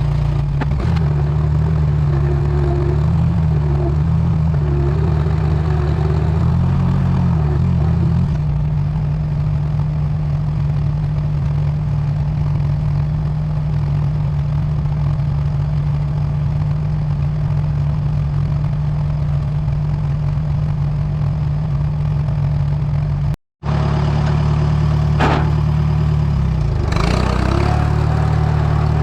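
Allis-Chalmers WD tractor's four-cylinder engine running while pulling a trailer of brush, its speed wavering for the first several seconds and then holding steady. The sound cuts out completely for a moment about three-quarters of the way through.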